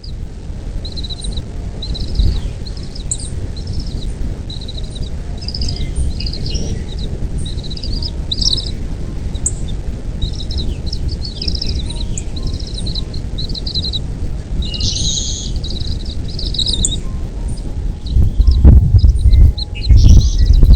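Birds chirping, a quick series of short high chirps over a steady low rumble, with a couple of louder low bumps near the end.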